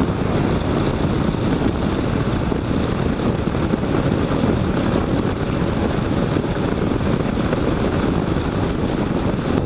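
Motorcycle under way: steady engine and road noise mixed with wind rushing over the rider's microphone.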